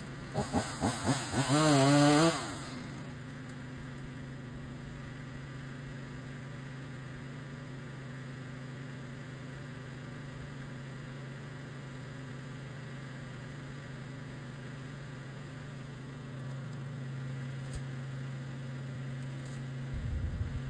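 Chainsaw given four quick throttle blips, then revved high for about a second before dropping back. A steady low engine hum carries on underneath.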